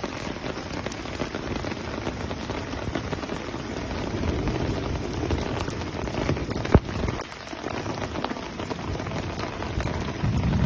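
Heavy rain pelting down on a hard surface, a dense steady patter of drops with one sharper tap about seven seconds in.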